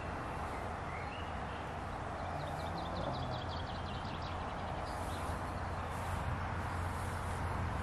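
Small birds singing outdoors, with short high chirps and a quick trill of rapid notes about two and a half seconds in, over a steady low rumble of wind on the microphone.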